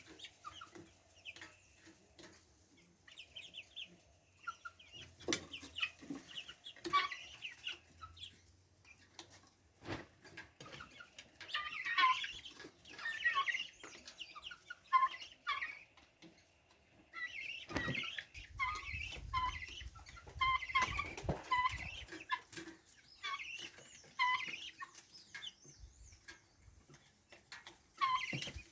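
Chickens clucking and calling in repeated short notes, coming in busier flurries partway through and again in the second half.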